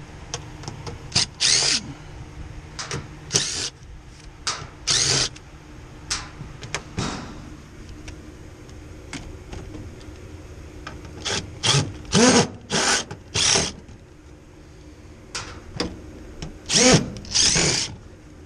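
Power drill run in a series of short trigger bursts, each well under a second, coming in clusters.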